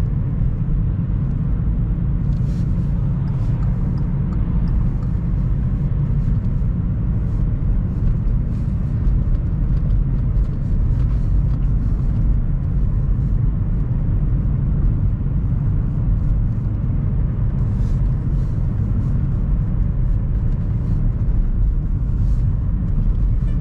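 Car driving along: a steady, low rumble of engine and road noise.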